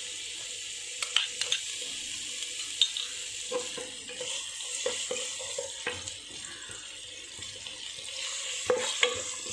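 Crushed garlic and sliced green chillies sizzling in hot oil in a nonstick pan, with steady frying hiss. A wooden spatula taps and scrapes against the pan several times as the mixture is stirred.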